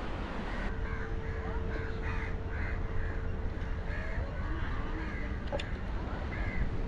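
Birds calling repeatedly, short calls about two or three a second, over a steady low rumble.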